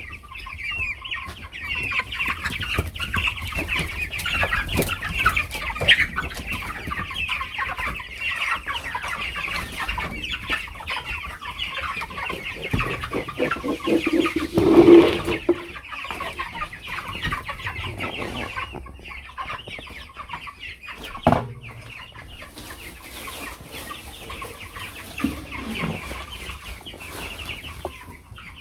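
A flock of broiler chickens cheeping and clucking continuously in a dense chorus of high calls, with scattered knocks and a louder, lower sound about halfway through.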